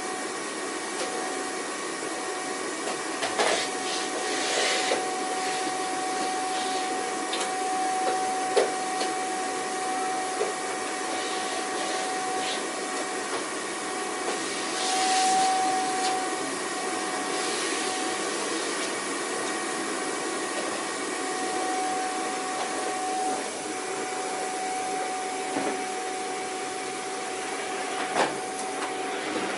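Vacuum cleaner running steadily: a constant motor whine over rushing air. There are a few brief louder rushes of air about three to five seconds in and again about halfway through, and occasional sharp clicks, one near the end.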